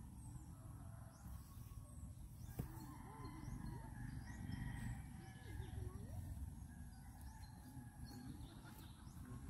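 Scattered bird chirps and short calls, some lower and fowl-like, over a steady low rumble.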